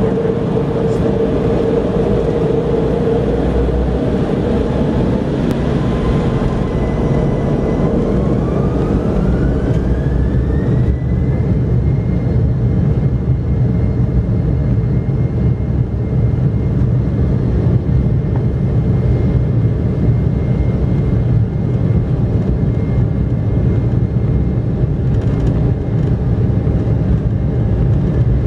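Embraer E190 jet engines, heard from inside the cabin, spooling up for takeoff: a whine rises in pitch about a third of the way in and then holds steady over a loud, constant rumble.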